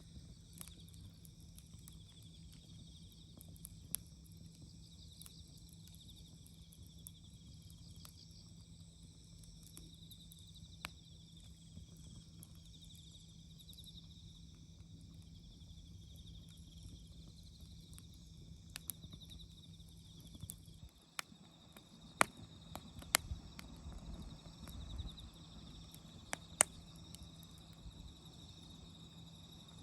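Wood fire crackling, with scattered sharp pops that come louder and closer together in the last third, over a steady chorus of autumn insects chirping.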